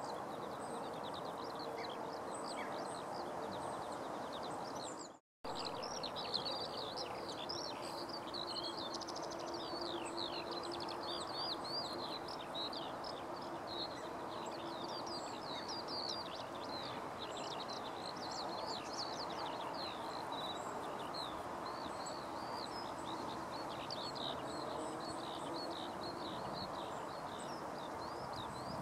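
Many quick, high-pitched bird chirps in a dense, continuous run over a steady outdoor hum. They start about five seconds in, right after a brief total cut-out of the sound.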